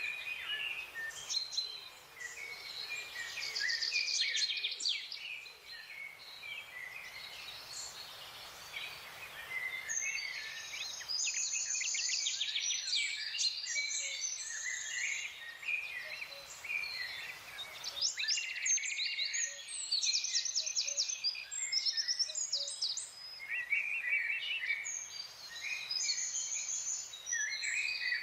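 Several small songbirds chirping and singing at once, a busy chorus of short high chirps and whistles with bursts of rapid trills.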